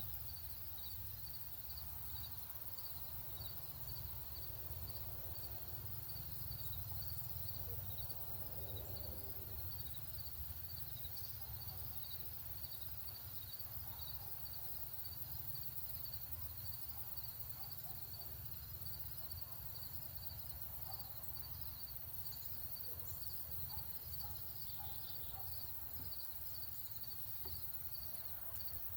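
Outdoor ambience: an insect chirps in an even, high-pitched pulse about twice a second over a steady low rumble, with a few faint bird calls.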